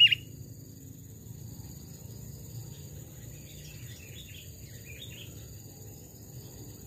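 Forest ambience: a steady high insect buzz with a few faint bird chirps about three to five seconds in. A loud sooty-headed bulbul song phrase breaks off right at the start.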